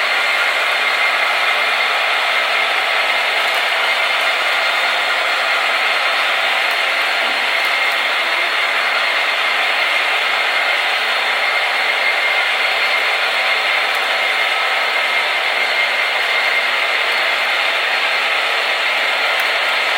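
Several HO-scale model diesel locomotives running together, their DCC sound decoders playing diesel engine sound through small speakers over the whir of motors and wheels on the track. The sound is a steady, unbroken drone with no low bass.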